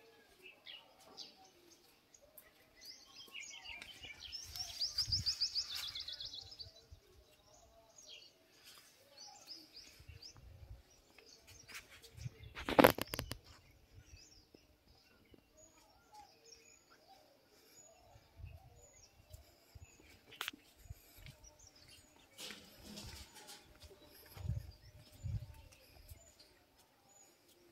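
Birds chirping and calling, with a fast trilling song about four to six seconds in. A single sharp knock about thirteen seconds in is the loudest sound.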